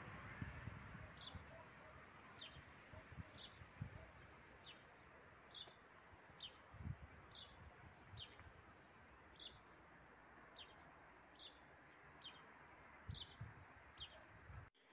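A small bird calling faintly, repeating a short, high, falling chirp about once or twice a second.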